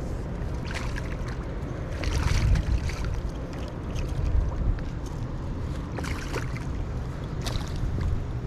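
Steady low rumble of water rushing below a dam. It swells twice and is broken by a few short rustles and knocks.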